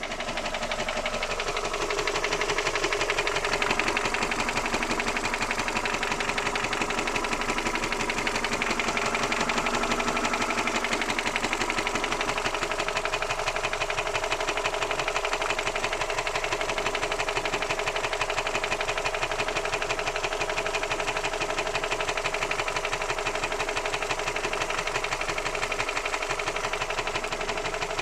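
Toyota 4E-FE 1.3-litre four-cylinder engine running steadily with a rapid knock. With the timing belt now set correctly on its marks, this is the knock that a belt set one tooth off had hidden.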